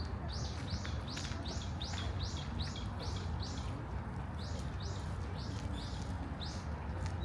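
A bird calling a long series of short, high notes, about three a second, with a brief pause partway through, over a steady low rumble.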